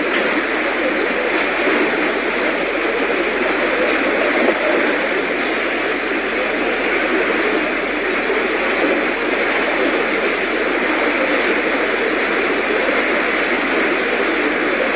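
Steady, loud hiss of noise, like static, with no breaks or changes.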